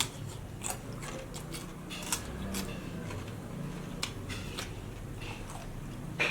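Close-miked eating: irregular wet clicks and smacks of chewing a mouthful of rice and pork curry, over a low steady hum.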